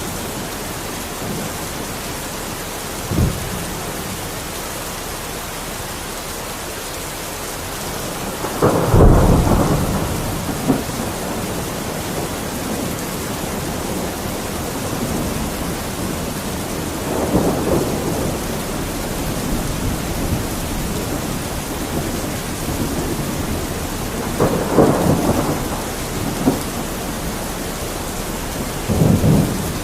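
Steady heavy rain with rolls of thunder: a loud low rumble peaks about nine seconds in, and further rumbles come later, with a short thump about three seconds in.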